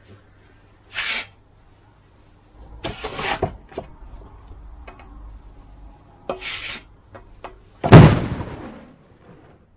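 Wheelbarrow tyre bursting: one loud sudden bang about eight seconds in, deep and with a short decaying tail. Before it, a few shorter noisy scrapes.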